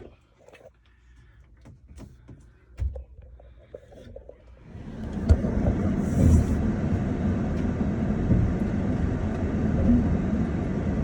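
A few light clicks and knocks, then about halfway through a steady rumbling vehicle noise sets in and holds, like a running vehicle heard from inside.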